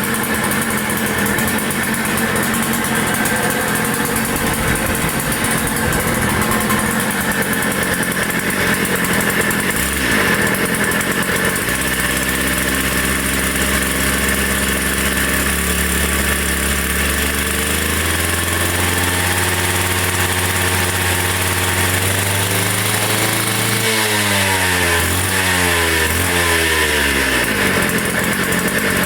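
Makita EK6101 two-stroke petrol power cutter (concrete saw) engine running steadily and loudly. A lower drone comes in partway through and glides down in pitch for a few seconds near the end.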